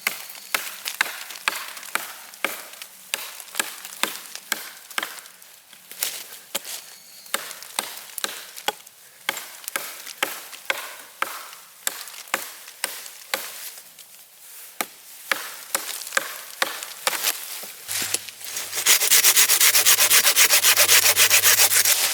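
Wood being shaved by hand in short scraping strokes, about two a second, while tinder is prepared for a fire. For the last three seconds this turns into a louder, faster, continuous rasping.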